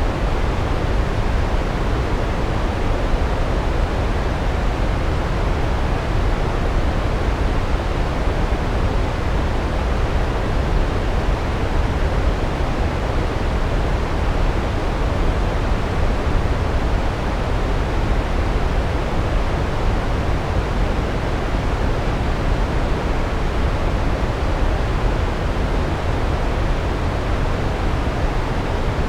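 Large waterfall pouring: a steady, unbroken rush of falling water, deepest in the lows.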